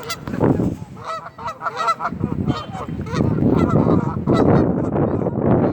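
A flock of waterfowl calling over one another, with many short, repeated calls overlapping.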